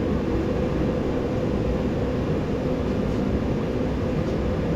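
Steady machine drone with a constant hum, most likely the heater running to warm the cold workspace.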